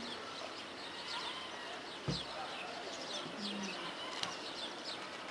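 Small birds chirping over and over, short high notes that fall in pitch, over a steady outdoor background hiss. A soft thump about two seconds in.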